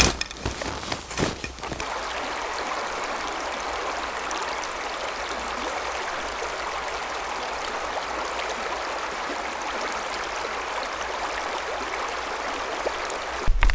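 Steady rushing of flowing water, with a few crunching knocks in the first two seconds.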